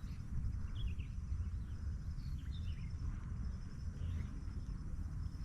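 A steady low rumble, which the uploader takes for Merapi volcano rumbling before an eruption, under scattered bird chirps and a faint, steady high insect trill.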